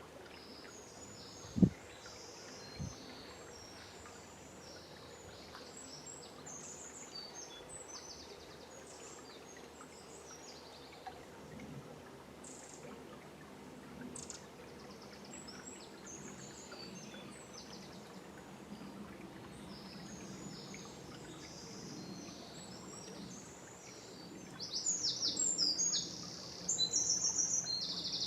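Dawn chorus of several songbirds chirping and calling over the faint steady rush of a forest river, with a louder bird singing fast runs of repeated notes near the end. A sharp low thump about a second and a half in, and a smaller one a second later.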